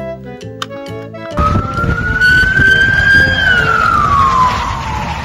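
An emergency-vehicle siren wails over a low rumble: one slow rise in pitch, then a long steady fall. A short run of organ-like music notes stops about a second and a half in, just before the siren starts.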